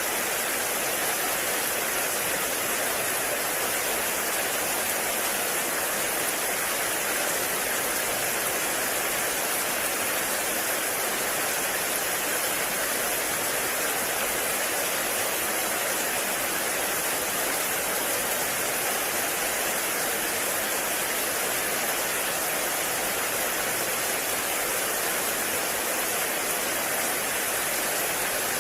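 Heavy rain falling steadily, an even hiss with no separate drops, thunder or other events standing out.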